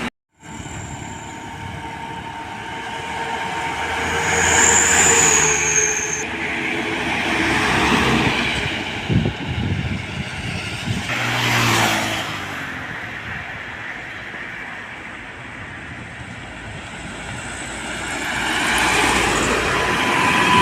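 Road traffic passing close by: large vehicles driving past one after another, the sound of engines and tyres swelling and fading several times. There is a brief cut to silence at the very start.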